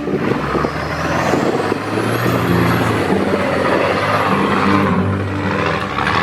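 Straight-piped Cummins diesel engine working hard under load while towing a stuck truck through snow, with a high turbo whistle that rises over the first two seconds and then holds.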